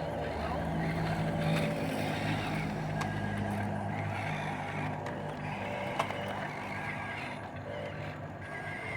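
Heavy vehicle engine running steadily, with a sharp click about six seconds in.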